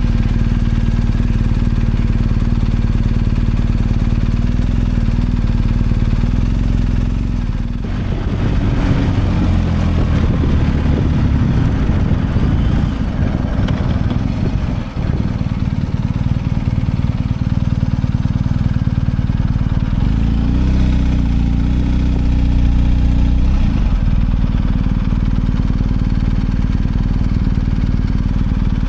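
BMW R1250 GS Adventure's boxer-twin engine running loud and steady after starting, then pulling away. The engine note changes about eight seconds in, dips briefly around fifteen seconds, and shifts again a little after twenty seconds as the bike picks up speed and changes gear.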